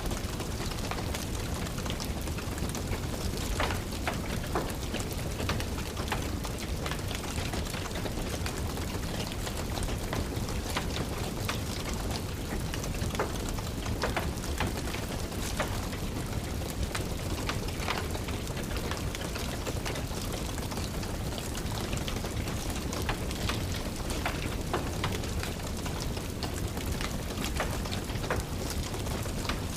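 Steady rain pattering, with a wood fire crackling in small irregular pops throughout.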